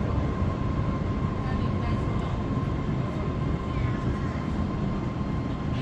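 Qingdao Metro Line 8 train standing at a station with its doors open, heard inside the car: a steady rumble of onboard equipment and ventilation with a constant high whine.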